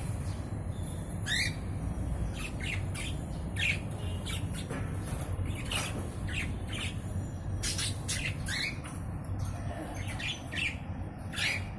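Mynas squawking and calling: a run of short, harsh calls at irregular intervals, some sweeping quickly upward in pitch.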